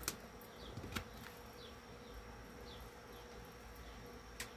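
Three sharp clicks, near the start, about a second in and near the end, as tools work at stubborn nails in a wooden speaker cabinet. Under them runs a faint steady hum, with small high chirps about once a second.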